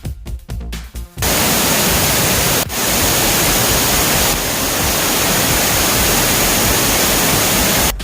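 Background electronic music for about a second, then the loud, steady roar of a large waterfall in full monsoon flow, with a brief break a little before the midpoint.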